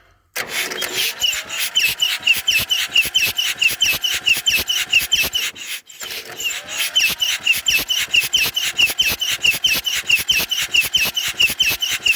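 Massey Ferguson 35's three-cylinder diesel engine cranking over on its electric starter in two runs with a short break about six seconds in, the starter whining up at the start of each and the compression pulses coming at about five a second. The engine, once seized solid, now turns over freely but does not fire, its fuel lines still off.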